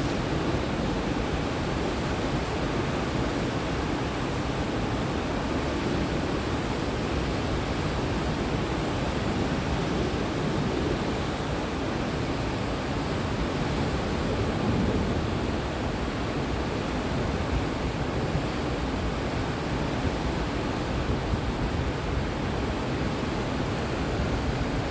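Whitewater of the Potomac River's Great Falls rushing over the rocks in a steady, unbroken roar, the falls running with much more water than usual after heavy rain.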